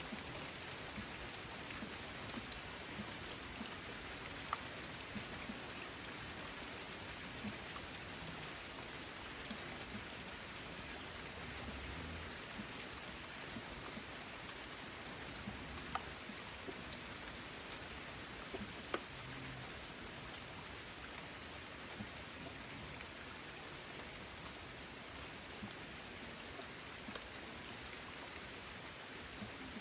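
Steady rain on a corrugated zinc roof: an even hiss with many small drop ticks, and a few sharper single drops standing out.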